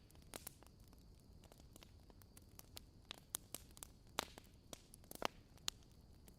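Wood fire crackling: irregular sharp pops and snaps, a dozen or so, over a low steady hiss.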